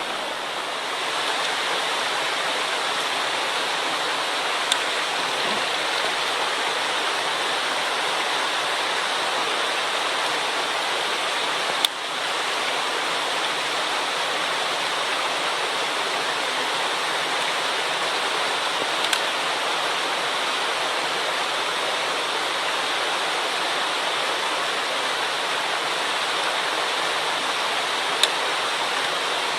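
Steady, loud rush of a mountain stream running high after a typhoon. A few sharp clicks or knocks stand out over it, the loudest about halfway through.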